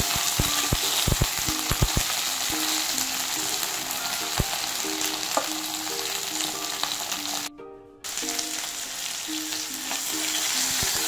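Oil sizzling as whole green chillies, garlic cloves and tomatoes fry in a steel kadai, with a steel spatula clinking and scraping against the pan, most often in the first two seconds. The sound drops out for about half a second around seven and a half seconds in.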